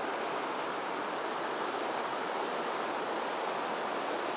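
Mountain stream water flowing, a steady, even rush.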